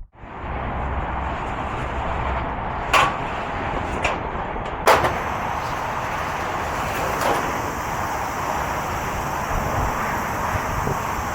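Tesla Cybertruck under way: steady road and wind noise with no engine note, broken by a few sharp knocks, the loudest about five seconds in.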